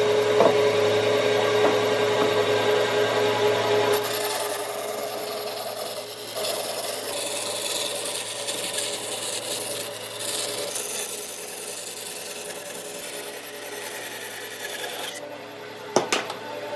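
A tool scraping and cutting wood with a steady rasping noise over a low machine hum, loudest in the first few seconds. It stops about a second before the end and is followed by a few sharp knocks.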